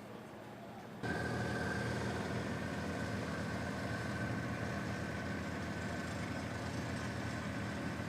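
A heavy vehicle engine running steadily, with a thin steady whine above it. It cuts in abruptly about a second in.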